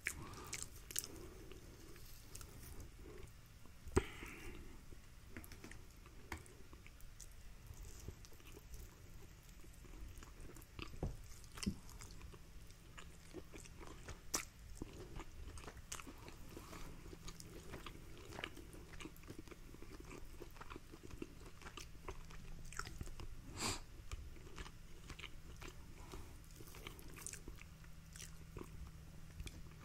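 Faint, close-up chewing of rotisserie chicken, with scattered sharp mouth clicks and smacks.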